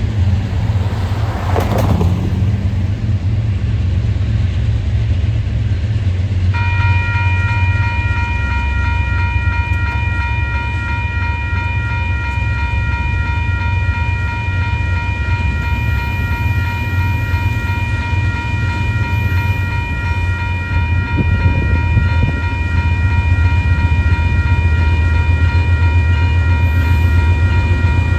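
Freight train rumbling past at close range. A steady, high, ringing tone starts about six seconds in and keeps sounding alongside the rumble.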